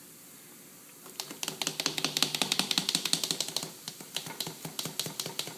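Dense, irregular clicking and rattling from the pot of boiling baking-soda water holding the metal microwave exhaust filter, starting about a second in.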